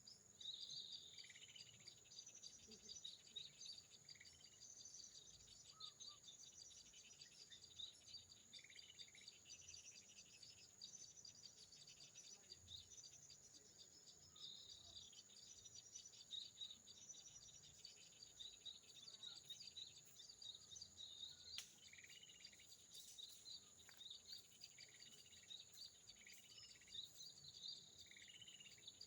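Faint, short, high bird chirps repeating every second or two, over a steady high-pitched insect drone.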